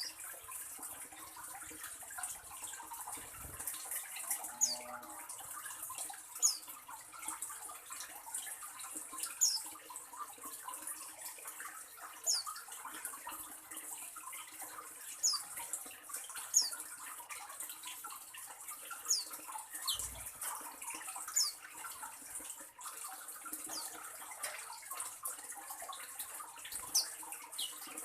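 Oriental magpie-robin giving short, high whistled call notes that fall in pitch, one every one to three seconds, over a steady high hiss.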